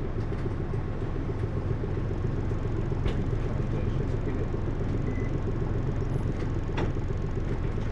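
Onboard running sound of a Hino U-HT2MLAA city bus: a steady low engine drone, with a sharp click about 3 s in and another near 7 s. The bus tends toward abnormal noises, which the uploader likens to a sister bus near the end of its service life.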